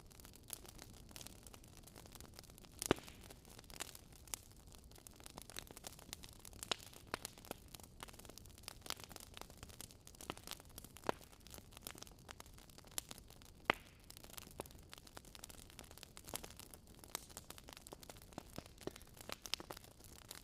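A wood fire crackling, with irregular sharp pops over a soft steady hiss and rumble. The loudest pops come about three seconds in and again about fourteen seconds in.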